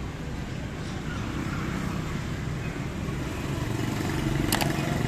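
Steady rumble of street traffic, with a sharp click about four and a half seconds in.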